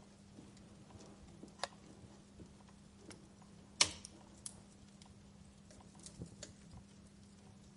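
Wood fire crackling: scattered sharp pops and snaps, the loudest just under four seconds in, over a faint steady hum.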